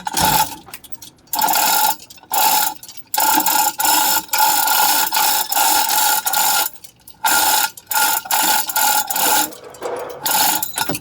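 Ratcheting tool work on an engine: repeated bursts of fast ratchet clicking, each from under a second to about three seconds long, with short pauses between them.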